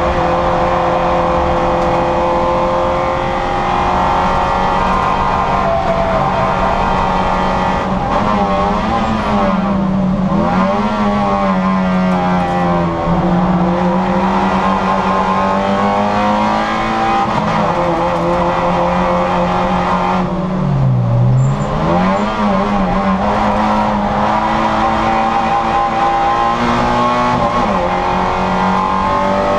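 Citroën Saxo VTR's four-cylinder engine running at high revs under full throttle, its pitch mostly steady. Twice, about ten and twenty-one seconds in, the pitch drops and wavers, then climbs back up.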